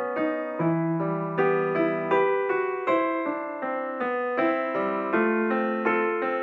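Background piano music, a slow, gentle melody of single notes struck about once a second.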